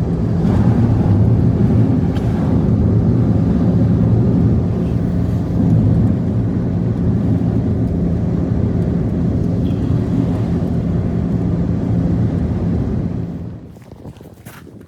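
A steady engine running loudly, dying away about 13 seconds in.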